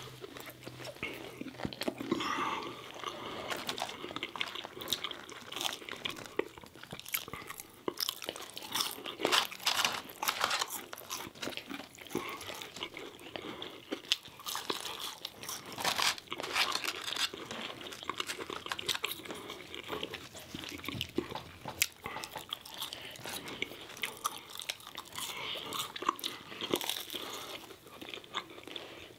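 Two people chewing and crunching McDonald's chicken nuggets and French fries, with a steady stream of irregular bites, crunches and wet mouth crackles.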